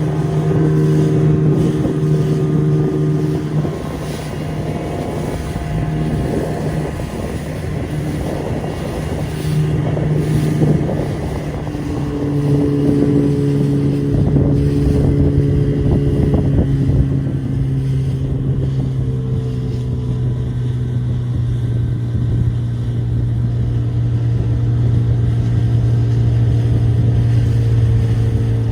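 Motorboat engine running steadily under way; about twelve seconds in it settles to a slightly lower, steady pitch. Gusty wind buffets the microphone over it.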